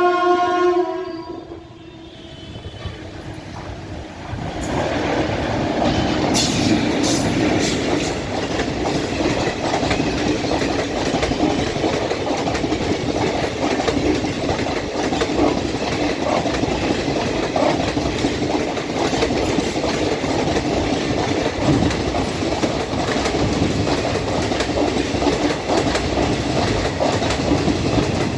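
An Indian express train's horn sounds and dies away in the first couple of seconds. About four seconds in, the train's rumble rises sharply and stays loud as it runs through at speed, with a rapid clickety-clack of wheels over the rail joints.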